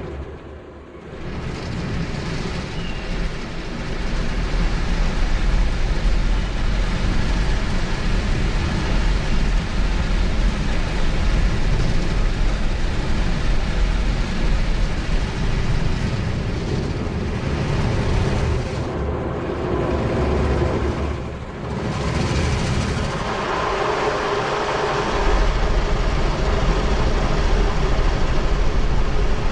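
Automatic car wash machinery running: a loud, steady rushing noise that dips briefly about a second in and again about two-thirds of the way through.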